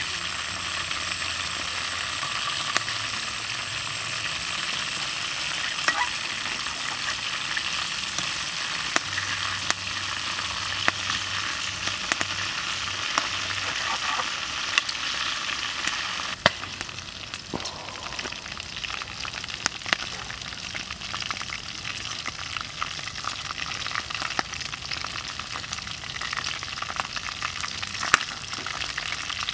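Chicken wings frying in hot oil in a steel wok: a steady sizzle, with sharp clicks now and then as a metal ladle stirs and turns the wings against the pan.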